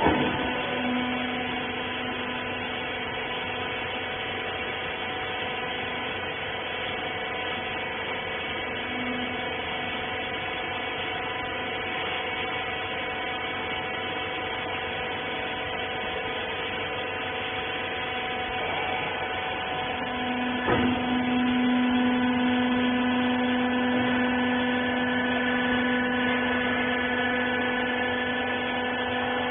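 Hydraulic rag baler's electric motor and pump running, a steady hum made of several held tones. A knock comes about 21 seconds in, after which a lower tone grows stronger and the machine runs a little louder.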